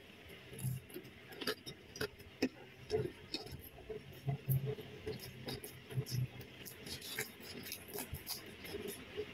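Close-up eating sounds: irregular crisp crunches, chewing and small wet mouth clicks as raw vegetables such as a chili and a green long bean are bitten and chewed.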